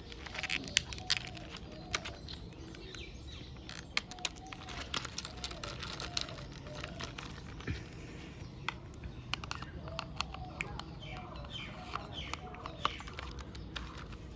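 Sharp irregular clicks and taps of plastic toy parts being handled as wheels are snapped onto a toy vehicle. Birds call faintly in the background with short repeated coos and a few chirps.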